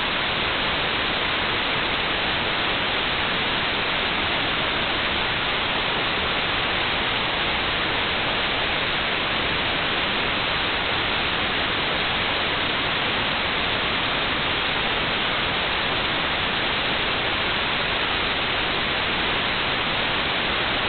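White noise: a steady, even hiss that cuts off suddenly at the very end.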